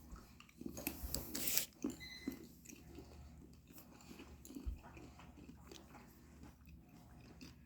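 Faint biting and chewing of a chocolate bar filled with popping candy. The crunching is loudest from about half a second to two seconds in, then goes on as scattered small crunchy clicks.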